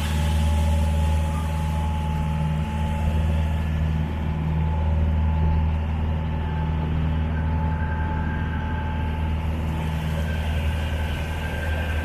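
A small passenger ferry's engine running steadily underway: a low, even drone with a faint higher whine above it.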